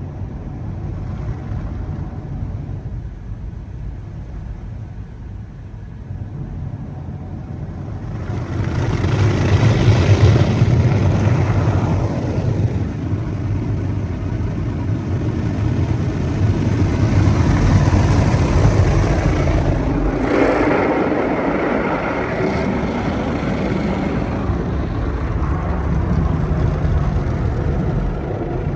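Mark VII ChoiceWash XT in-bay automatic car wash running its soft-touch cycle: a steady low machine rumble, joined about eight seconds in by a loud rush of water spray that swells again about twenty seconds in.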